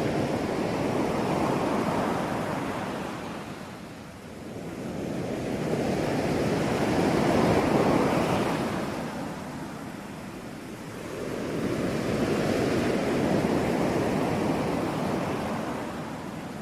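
Ocean surf washing in and drawing back: three swells of rushing water, each rising and falling over about five to six seconds.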